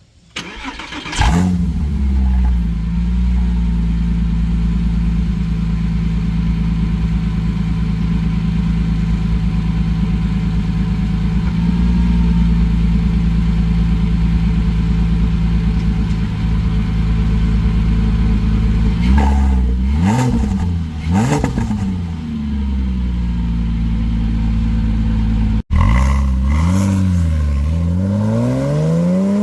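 2007 Porsche Cayman S flat-six with an AWE Tuning stainless cat-back exhaust cranking and starting about a second in, then idling steadily. Two quick throttle blips come around two-thirds of the way through, and near the end, after a brief cut, it blips again and the revs climb steadily.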